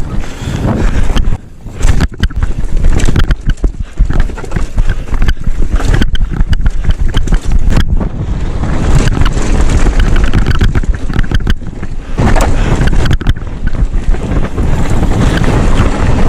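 Wind buffeting an action camera's microphone as a mountain bike is ridden fast down a rough, dusty trail. The bike rattles and clatters over the bumps, with frequent sharp knocks from impacts.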